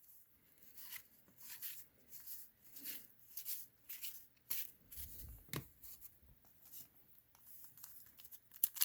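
Faint handling of trading cards: a series of soft brushes and clicks, about two a second, with a slightly louder rub about five seconds in.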